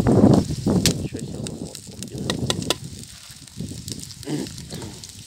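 Wind buffeting the microphone during the first second, then a campfire crackling with several sharp snaps.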